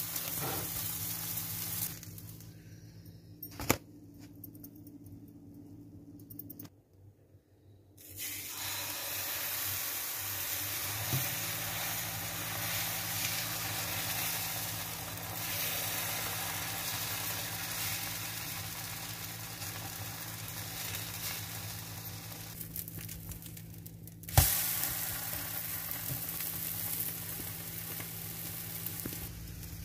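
Egg-and-vegetable batter sizzling in a nonstick frying pan. The sizzle drops away for a few seconds near the start and briefly about three-quarters through, then comes back after a sharp knock.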